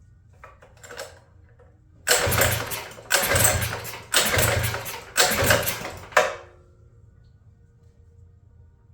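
The minibike's small single-cylinder engine runs in four rough surges, about one a second, then stalls about six seconds in.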